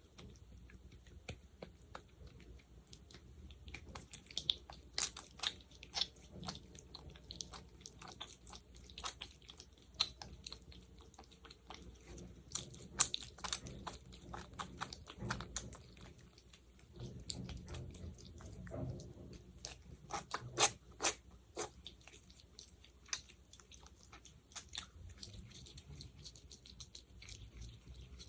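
Sticky, wet clicks and crackles of fingers pressing into and pulling apart a thick gel, coming irregularly with a few louder clusters.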